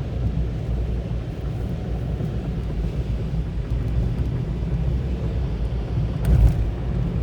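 Car driving, heard from inside: a steady low rumble of engine and tyres on the road, with a brief louder bump about six seconds in.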